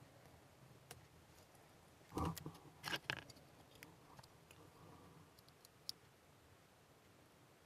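Faint, scattered clicks of small hand tools being handled during model work, with a brief cluster of louder clicks and rustling about two to three seconds in.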